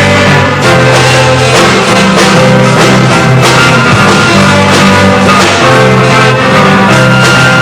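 Rock band playing live, an instrumental passage with guitar over a steady drum beat, recorded loud and close.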